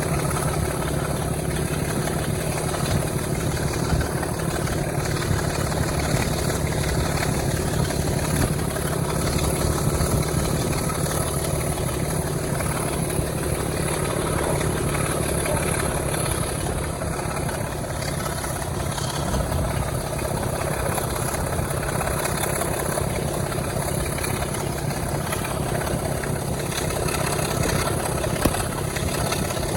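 Diesel locomotive engine running steadily with an even, low drone.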